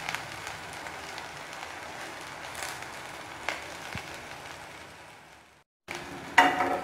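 Mustard oil sizzling steadily as colocasia leaf rolls shallow-fry in a kadhai, with a few light clicks of a fork against the pan as the rolls are moved. The sizzle fades and breaks off for a moment near the end.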